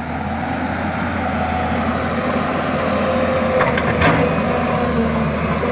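Excavator's diesel engine running steadily, with two sharp knocks or cracks close together a little past halfway through.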